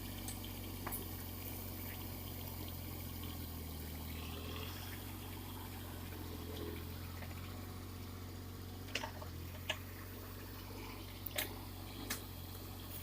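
Kubota mini excavator's diesel engine running steadily at a low hum, with a few short sharp knocks and clanks in the last few seconds.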